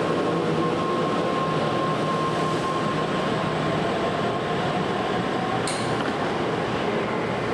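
Tokaido Shinkansen train running through the station: a steady loud rumble and rush with a thin high whine that fades out about five and a half seconds in, followed by a short sharp click.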